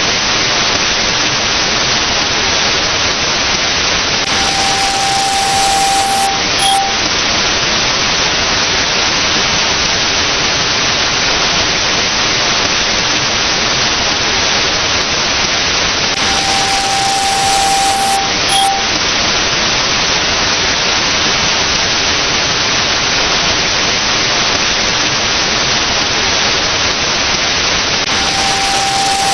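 Loud, steady static-like hiss. About every twelve seconds (three times) a steady electronic beep sounds for about two seconds, followed by a short blip.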